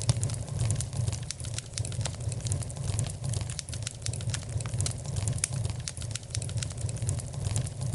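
Wood fire crackling in a fireplace: frequent irregular sharp pops and snaps over a steady low rumble of flame.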